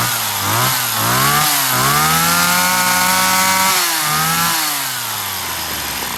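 Small two-stroke grass-trimmer engine revved up and down a few times, held at high revs for about two seconds in the middle, then dropping back to idle near the end.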